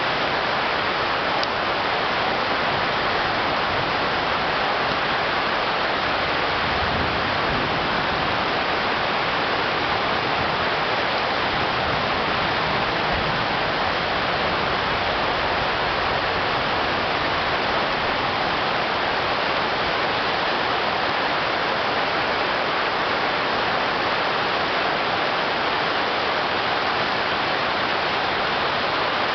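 Heavy tropical downpour: steady, dense rain with water pouring and running off.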